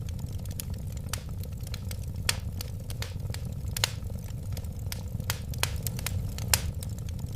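Wood fire crackling, with irregular sharp pops over a steady low rumble of the flames; a few pops are louder than the rest.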